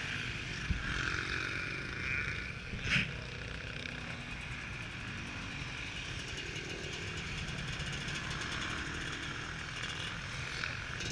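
Dirt bike engines running steadily, with a short, sharp louder noise about three seconds in.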